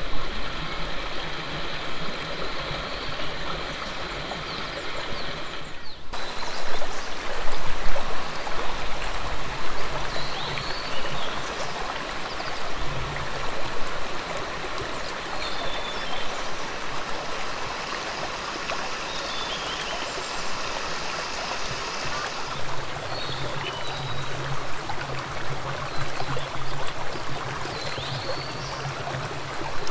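Steady rush of flowing stream water, with a few short high chirps over it.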